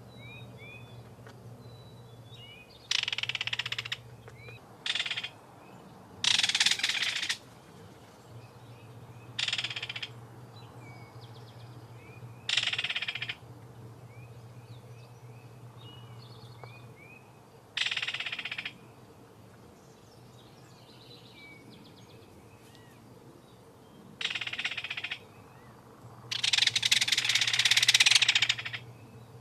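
Birds calling: harsh rasping bursts about a second long, eight times at irregular intervals, the longest and loudest near the end, over faint short chirps.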